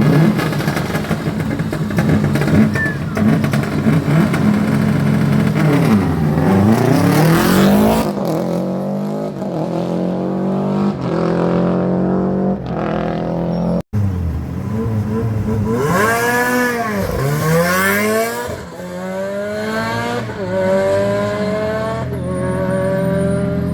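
Rally cars at full race pace passing on a stage, in two separate passes. Each engine revs hard, its pitch dropping and rising through gear changes and rev blips under braking, then climbing through the gears as the car accelerates away.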